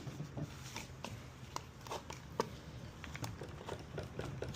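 Scattered light clicks and taps of hands working small parts and tools on a pole saw's engine, irregular, over a faint steady low hum.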